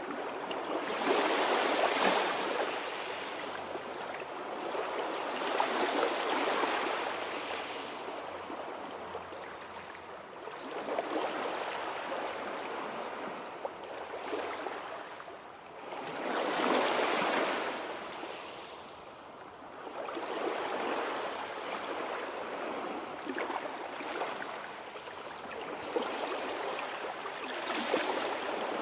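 Sea waves breaking and washing on the shore, each surge swelling and then fading every few seconds.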